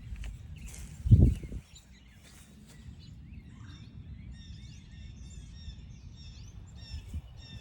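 Small songbirds chirping repeatedly over a steady low rumble, with one loud low thump about a second in.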